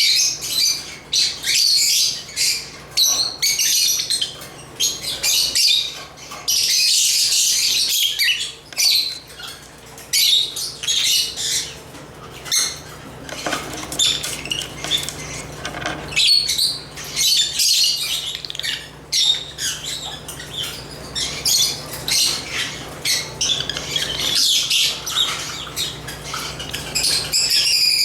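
African lovebirds chirping continuously, a dense run of rapid, shrill high-pitched chirps and squawks from several birds, with a faint steady low hum beneath.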